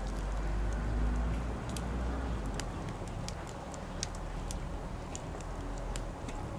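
Campfire crackling and popping in irregular sharp snaps, over a low rumble that eases off near the end.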